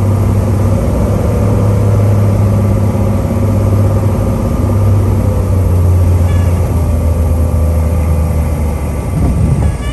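Cessna 185 Skywagon's six-cylinder piston engine running steadily, a loud even hum that eases slightly near the end.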